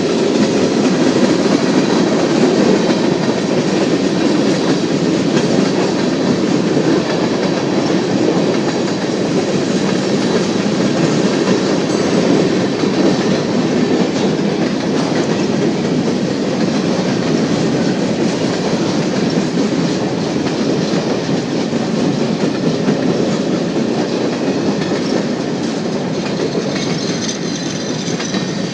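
Union Pacific freight train rolling past, a steady rumble of wheels on rail that eases a little near the end.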